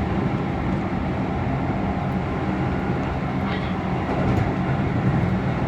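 Keihan electric limited express train running on the rails, heard from the driver's cab: a steady low running noise with a few faint ticks.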